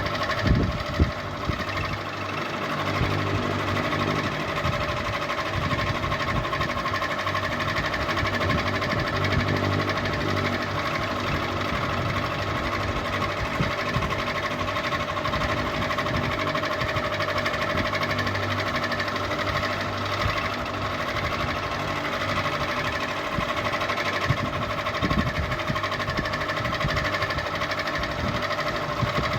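Ceiling fan running steadily, a continuous motor hum and whirr, with a couple of brief knocks near the start.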